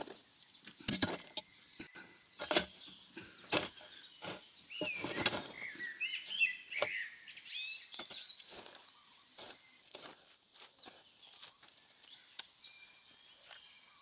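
A series of sharp knocks, about one a second at first and sparser later on, with birds chirping in a burst around the middle.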